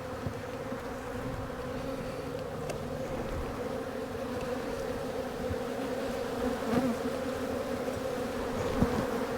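Honey bees buzzing steadily around an opened hive, a dense, unbroken hum from many bees. The colony is agitated and defensive, with bees flying at the beekeeper.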